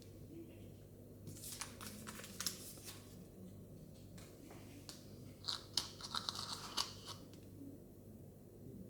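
Small plastic toy packaging being crinkled and torn open by hand, in two bursts of crackling and clicks: one about a second in, and a louder one around five and a half seconds in.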